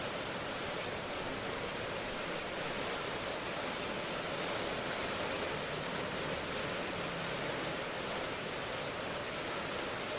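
Steady rain ambience: an even hiss of falling rain, with no distinct drops or thunder standing out.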